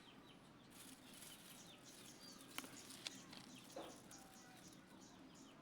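Faint birds chirping, many short calls repeating, with two sharp clicks a little over halfway through.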